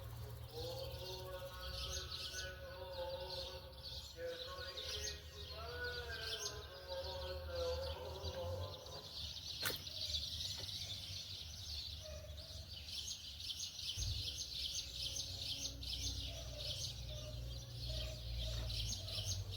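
Rural outdoor ambience: a continuous chorus of high-pitched chirping, with faint pitched calls in the first half and a single sharp click about ten seconds in, over a low hum.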